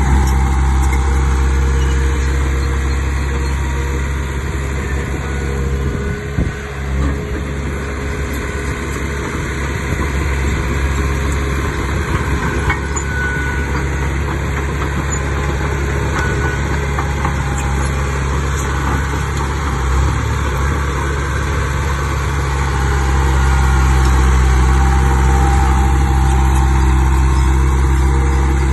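Heavy diesel engine of earthmoving equipment running steadily at a low, even pitch, swelling louder for a few seconds about three-quarters of the way through.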